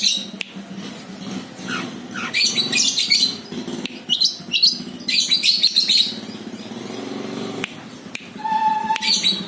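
Long-tailed shrike (cendet) singing in bursts of rapid, high chattering chirps, a Madura-type bird whose song mimics a lovebird. A short steady tone sounds briefly near the end.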